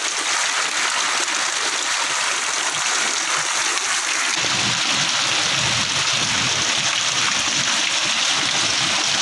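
Heavy downpour: a loud, steady hiss of rain. About four seconds in, a deeper rumbling layer joins it.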